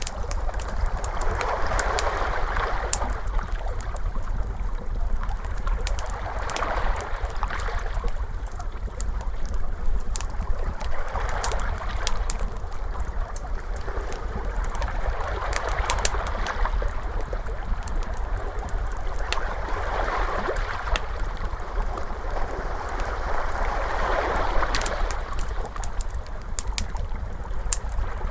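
Ocean waves washing in slow swells, one about every four to five seconds, with a wood fire crackling in sharp pops over them and a steady low rumble underneath.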